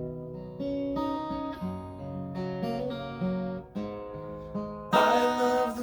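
Acoustic guitar playing chords as a song's intro; a singing voice comes in over it about five seconds in.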